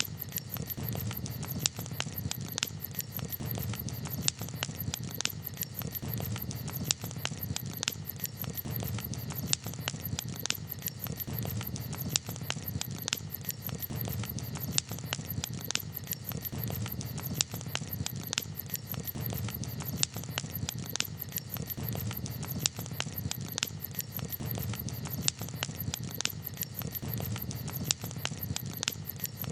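Wood campfire crackling: sharp, irregular pops and snaps, a few a second, over a low, steady rumble of the burning fire.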